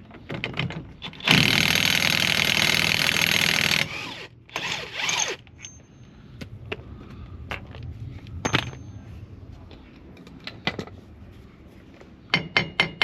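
Impact wrench hammering on the Transit Custom's big driveshaft hub nut for about two and a half seconds, then a second, shorter burst. After that come scattered clicks and clinks of tools and parts being handled.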